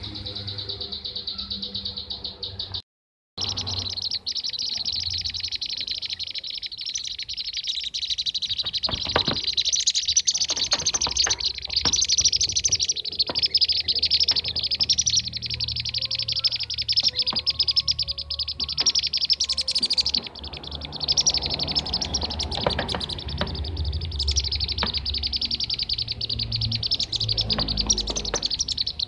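Bee-eaters (kirik-kirik) calling in a dense, continuous chorus of rapid rolling trills, as in a bird-lure recording. The sound cuts out completely for about half a second near the start.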